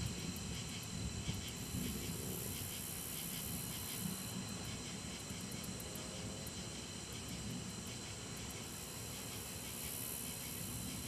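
Low rumble of distant thunder, strongest at the start and slowly dying away, over a steady hiss.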